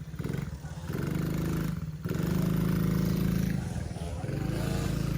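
Small 50cc automatic kids' dirt bike engine running, its pitch and level rising and falling as it is throttled on and off, with a short drop-off about two seconds in.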